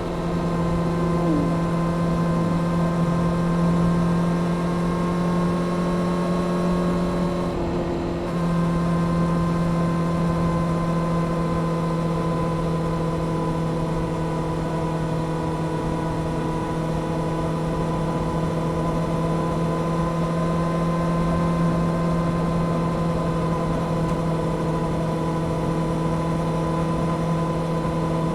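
Honda CBR600F Sport's inline-four engine running steadily under way through a Delkevic aftermarket exhaust. About eight seconds in the note briefly dips, then settles slightly lower and holds steady.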